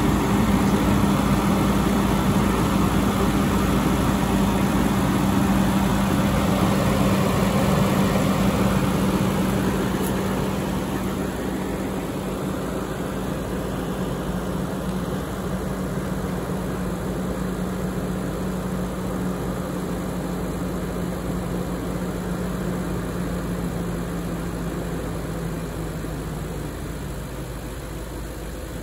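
BMW 740i E38's 4.4-litre V8 idling during warm-up after a cold start, with a steady low hum. About ten seconds in it gets quieter and loses some of its hiss, and it eases a little more near the end.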